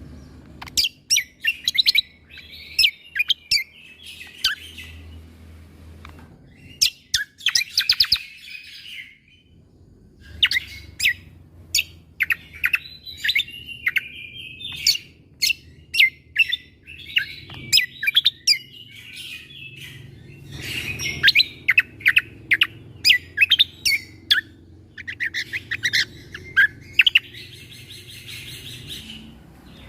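Cucak kombo songbird singing in bursts of sharp, clipped 'shot' notes (tembakan), fired in quick runs and mixed with short buzzy trills, with brief pauses between phrases.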